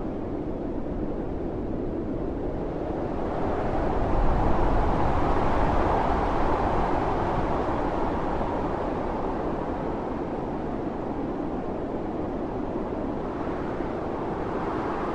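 Howling snowstorm wind: a steady rush that swells into a strong gust about four seconds in, then eases back over the next few seconds.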